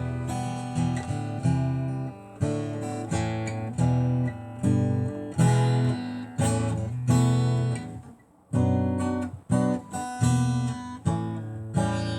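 Acoustic guitar strummed and picked in an instrumental passage between sung verses, chords struck about every half-second and left to ring, with a short break about eight seconds in.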